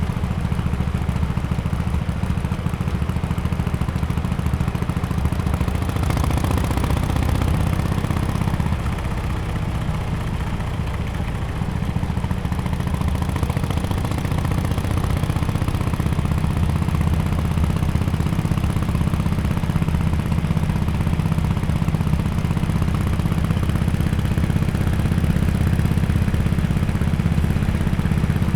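2017 Harley-Davidson XL1200X Forty-Eight's air-cooled V-twin running steadily through aftermarket Bell's Performance exhaust mufflers, a low-pitched exhaust note. A hiss of higher noise rises about six seconds in and fades a few seconds later.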